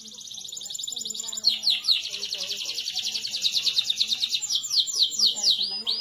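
Domestic canary singing a rapid rolling trill that swells in loudness, switching about a second and a half in to a trill of quick downward-sweeping notes, which slow into separate down-slurred notes near the end.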